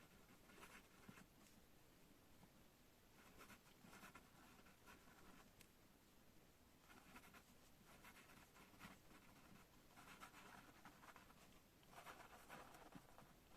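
Faint pen scratching on paper: handwriting in short runs of strokes with brief pauses between them.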